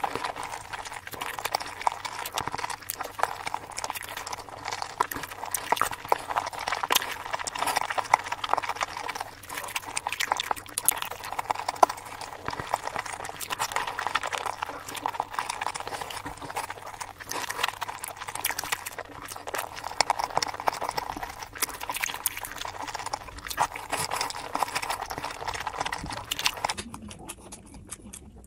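Close-miked chewing of boiled eggs for mukbang ASMR: a rapid, continuous run of wet mouth clicks and lip smacks. Near the end it cuts to a duller-sounding recording of eating.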